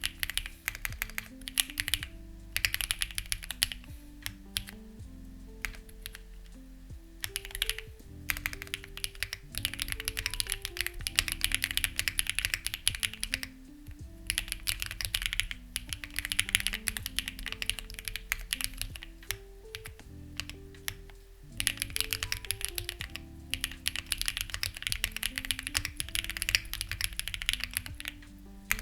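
Typing on a Lucky65 v2 mechanical keyboard with stock, unlubed HMX Ziwei switches: quick runs of keystrokes in bursts, broken by brief pauses.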